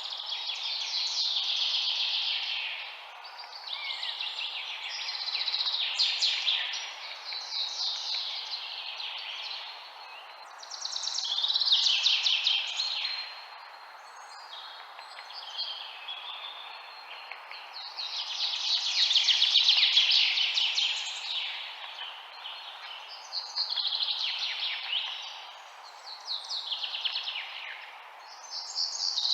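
Songbirds singing: trilled chirping phrases of one to three seconds, one after another every few seconds, over a steady background hiss.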